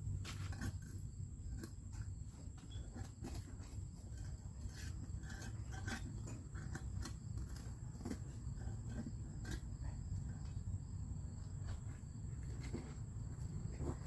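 Scattered light clicks and scrapes over a steady low rumble and a constant thin high-pitched buzz.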